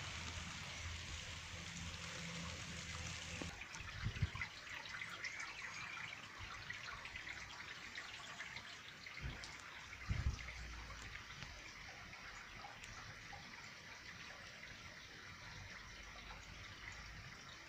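Heavy rain falling on a wet street and driveway, making a steady hiss of drops and splashing. A few short low bumps come at about four, nine and ten seconds in.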